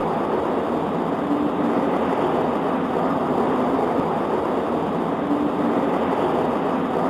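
Steady rain on a window: an even, dull hiss with no thunder and no change in level.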